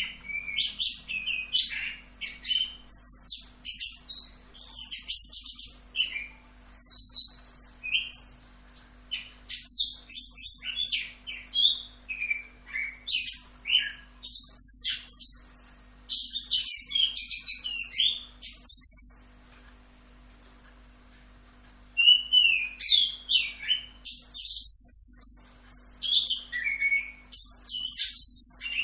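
Chestnut-capped thrush (anis kembang) singing a long, rapid, rolling run of varied high chirps and whistles. The song breaks off for about two seconds past the middle, then starts again.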